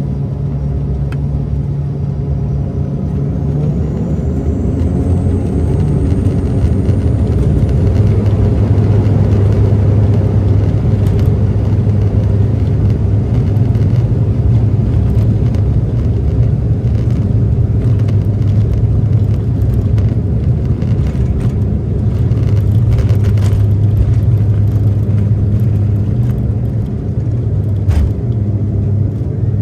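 Cabin noise of a De Havilland Canada Dash 8-400 turboprop: a steady low propeller drone, with a high engine whine that rises in pitch over the first several seconds while the sound grows louder. A few light clicks and rattles come through now and then.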